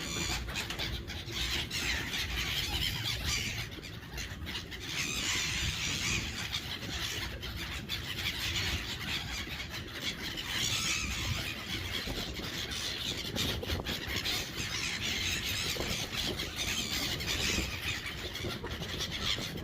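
Seagulls calling around a person feeding them by hand, over a steady hiss.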